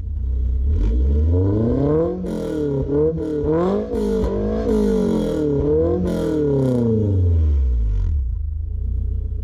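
Honda S2000's four-cylinder engine revved hard several times, climbing, dropping back and climbing again, then falling back toward idle near the end.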